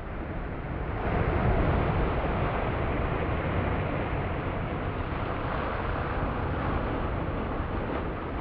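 Storm waves breaking against the sea wall: a surge of surf about a second in, then a sustained rush of water and spray.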